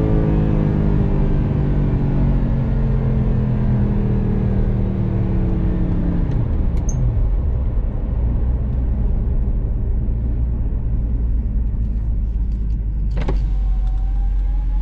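Audi R8's 4.2-litre V8 engine, heard from inside the car, coasting off throttle with its pitch falling slowly; about six seconds in the revs drop away to a low rumble as the car rolls toward a stop, with tyre and road noise underneath. A single sharp click comes near the end.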